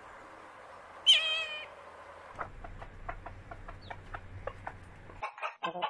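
A bird gives one loud call, falling in pitch, about a second in. Then comes a run of short soft ticks, and near the end a domestic hen clucking.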